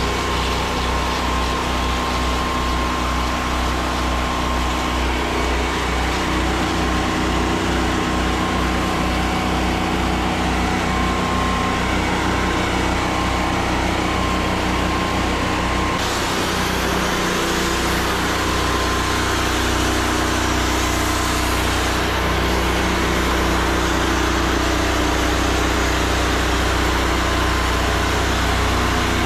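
Pressure-washing rig's engine running steadily under the hiss of water spraying from a wand. The spray hiss grows louder about halfway through.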